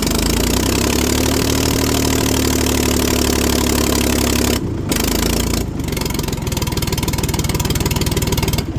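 The diesel engine of a 1973 Ford 4500 industrial backhoe catches after cranking and runs loud and steady. It breaks off briefly twice about halfway through, then runs on until it dies away at the very end.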